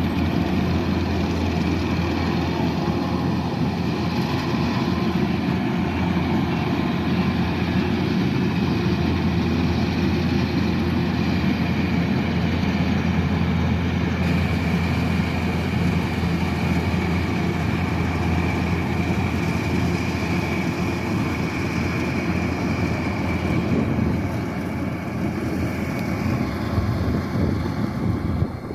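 Kubota DC-108X rice combine harvester running steadily: a constant low diesel drone with a faint steady whine above it, easing slightly near the end.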